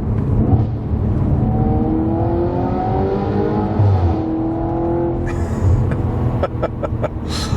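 Audi RS5 B8's naturally aspirated 4.2-litre V8 accelerating, its note rising for a couple of seconds, holding steady about four seconds in and then fading, over a steady low rumble.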